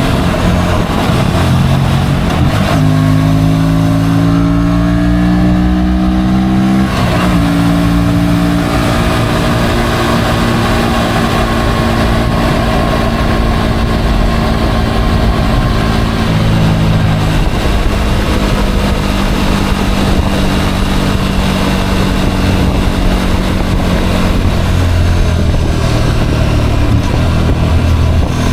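Motorcycle engine running under way: it revs up with rising pitch, drops back at a gear change about seven seconds in, then holds a steady cruising note, with further small changes in speed later on.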